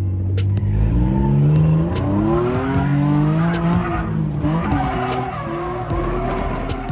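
Drift car's engine revving hard through a drift, its pitch climbing, dipping about four seconds in and climbing again, with tires squealing and skidding.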